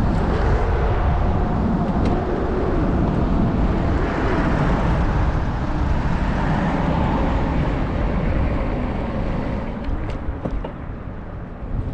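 Steady wind rumble and road noise from riding a fat-tire e-bike, with a faint steady hum in the middle, easing a little near the end.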